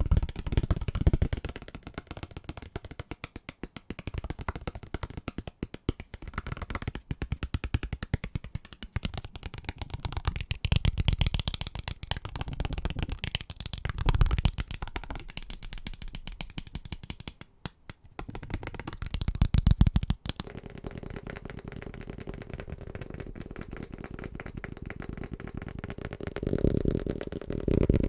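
Fast, aggressive tapping on assorted household objects: a dense run of rapid clicks and knocks whose texture switches abruptly several times as one object gives way to another.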